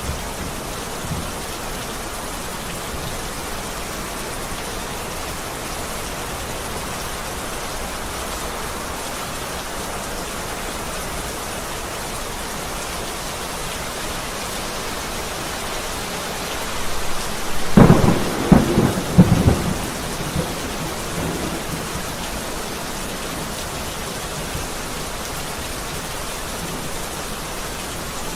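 Heavy rain falling steadily, with a thunderclap about two-thirds of the way in: a rising rumble breaking into several sharp cracks that roll off over a few seconds.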